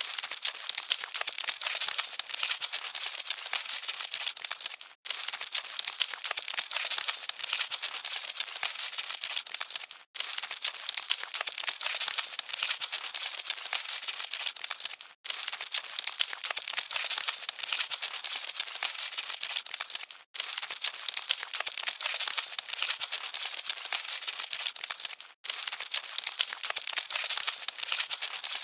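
Dense, crackly rustle of many tiny clicks, like cockroaches scuttling, held at an even level. It is a short recording looped every five seconds or so, with a brief silent gap at each repeat.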